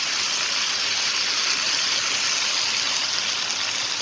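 Chopped onions with ginger and garlic sizzling steadily in hot ghee and olive oil in a pan on high heat.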